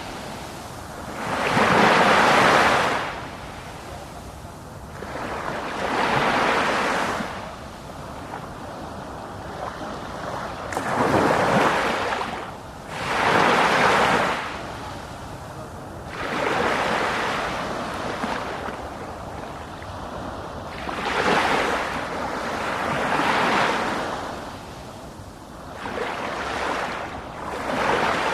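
Ocean waves breaking on the shore in a steady rhythm, a surge of surf every two to three seconds with the wash of the sea between them.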